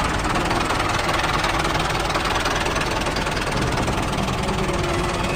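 Tractor engine running steadily with a fast, even knocking rhythm.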